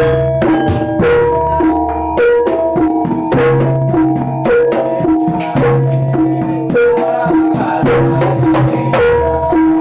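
Jaranan music: a Javanese gamelan-style ensemble plays a steady, fast pattern, with hand drums striking several times a second over ringing tuned gongs and metallophones whose pitched notes change about every half second, above a deep humming gong tone.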